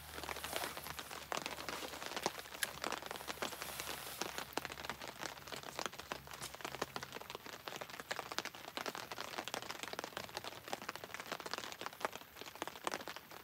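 Rain falling: a dense, irregular patter of drops.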